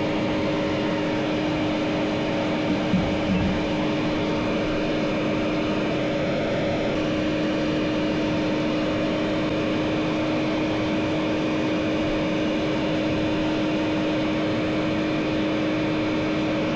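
An appliance motor running with a steady hum and a constant low tone, with a small knock about three seconds in.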